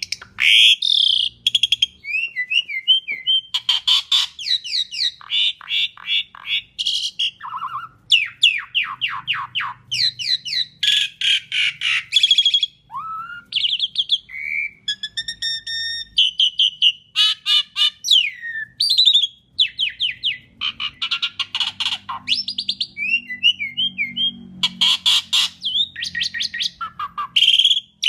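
Asian pied starling singing a continuous varied song: rapid rattling chatter, clear whistles and sliding notes strung together with only short pauses.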